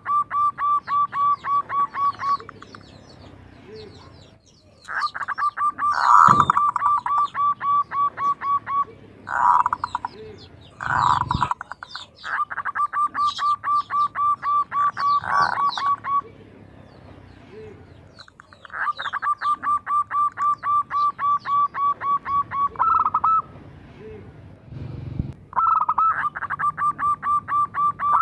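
Zebra dove giving its rapid staccato 'kerot' call: runs of quick, evenly spaced notes, about six a second, in bursts of a few seconds separated by short pauses. Small birds chirp faintly at a higher pitch behind it.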